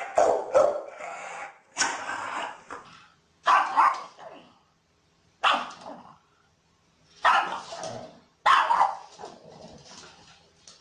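Dog barking: single sharp barks every second or two, at uneven intervals, with short silent gaps between them.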